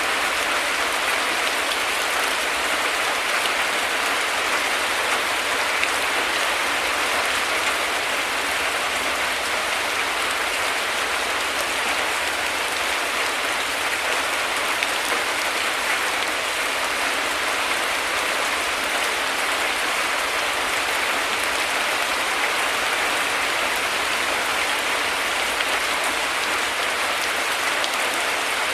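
Heavy rain falling steadily, an even hiss of drops without a break.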